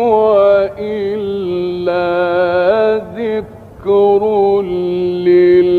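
A male reciter chanting the Quran in the melodic mujawwad style, holding long notes with ornamented turns and taking a short breath a little past halfway. The recording is old and dull-toned, cut off above the middle treble.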